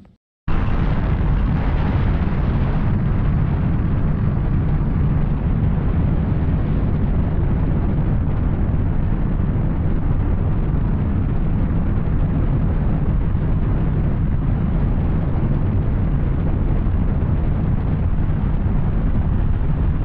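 Yamaha Tracer 900 motorcycle riding at a steady pace: its three-cylinder engine, fitted with an Arrow exhaust, running under heavy wind noise on the microphone. The sound cuts in abruptly about half a second in and holds an even level.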